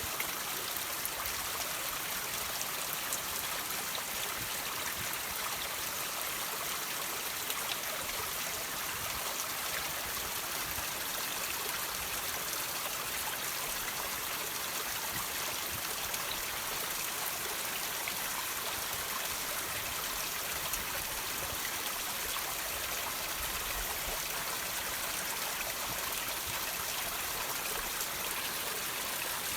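Water trickling and dripping off rocks: a steady hiss of running water, dotted with many small, quick drip ticks.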